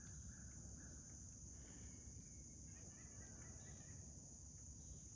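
Faint, steady, high-pitched drone of an insect chorus.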